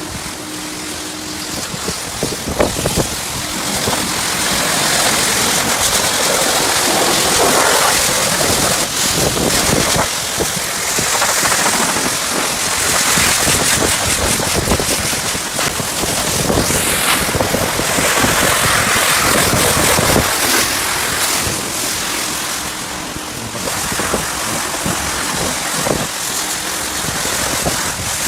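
High-pressure washer spraying water onto a car: a loud, steady hiss of spray that swells and eases, getting louder about four seconds in.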